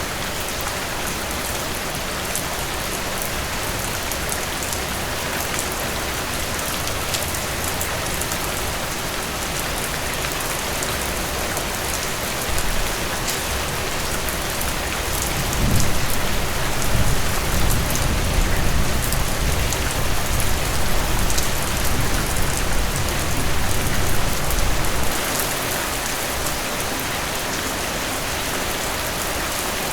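Heavy rain falling steadily, with a low rumble of thunder swelling up about halfway through and rolling on for about ten seconds before fading back into the rain.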